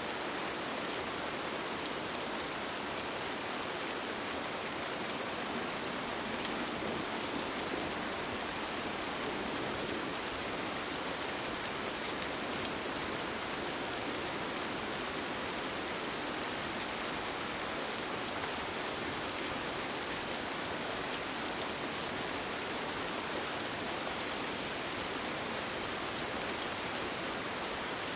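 Steady rain on a tent, heard from inside: an even, unbroken hiss with faint taps of single drops.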